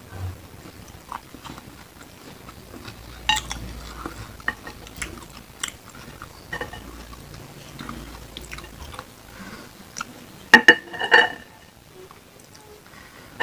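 Close-miked chewing of beef satay, with soft wet mouth clicks and smacks. About ten and a half seconds in comes a short burst of louder, sharper clicks.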